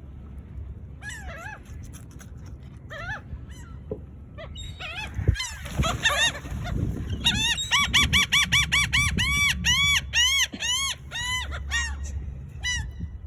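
Gulls calling: a few scattered cries, then from about seven seconds in a long, rapid run of loud repeated calls, each rising and falling. A steady low rumble sits underneath.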